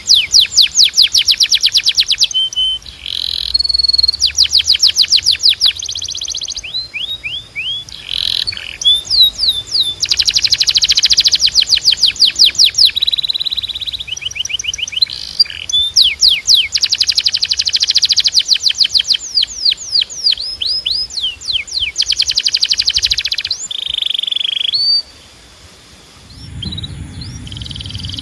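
Domestic canary singing a long song of rapid trills, each made of fast repeated sweeping notes, switching to a new trill every second or two. Near the end the song breaks off briefly and a low rumble comes in.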